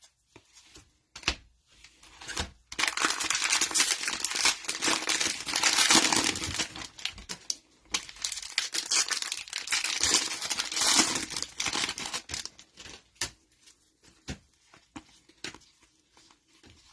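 Cellophane wrapper of a trading card cello pack being torn open and crinkled, dense crackling for about ten seconds starting near three seconds in. Scattered light clicks and taps follow.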